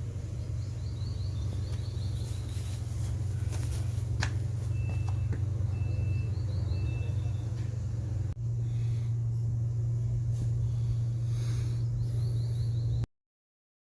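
Steady low hum of an idling engine, with birds chirping in short runs over it; the sound cuts off abruptly near the end.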